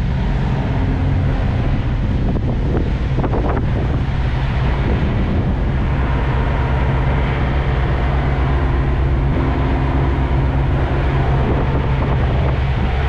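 Freightliner semi truck's diesel engine idling steadily, with wind buffeting the microphone.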